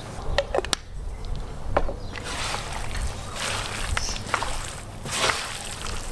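Wet sloshing and squelching of crocodile meat being mixed by hand with salt and pepper, after a few sharp clicks in the first two seconds.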